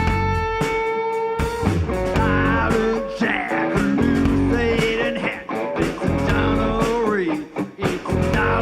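Live rock band playing, led by an electric guitar solo: a long held note, then a run of notes bent up and down in pitch, over steady drum hits.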